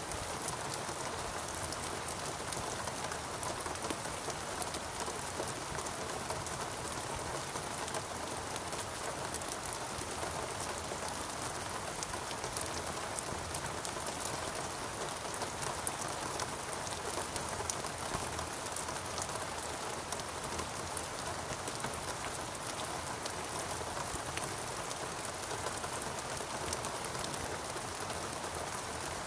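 Steady rain falling on rainforest foliage, a constant even hiss with many fine drop patters.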